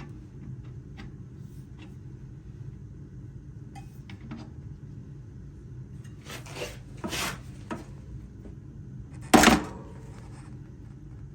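Metal tools and parts clinking and clattering as they are handled over a steady low hum, with a few light clicks, a run of clatters past the middle, and one loud, sharp clatter near the end.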